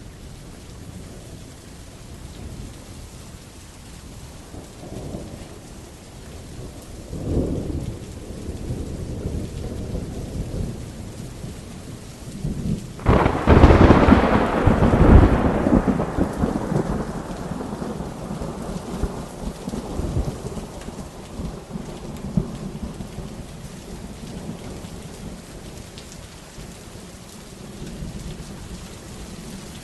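Thunderstorm with steady rain: two lighter rumbles of thunder about five and seven seconds in, then a loud clap of thunder about thirteen seconds in that rolls off over several seconds back into the rain.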